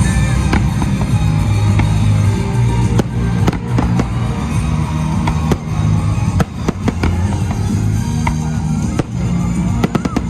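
Fireworks going off: scattered sharp bangs and cracks, with a quick cluster of them near the end, over loud music with a heavy bass line.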